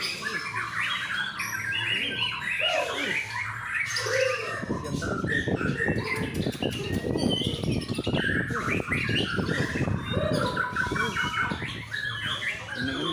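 White-rumped shamas singing and calling at a bird-song contest, a dense mix of varied whistled phrases, chattering notes and harsh squawks. From about four and a half seconds in, a busy clatter of other noise sits under the song.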